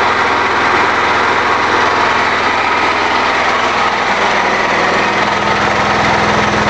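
Small petrol-type engine running steadily on wood gas from an Imbert gasifier, driving a 240 V generator under load. A lower hum grows stronger about five seconds in.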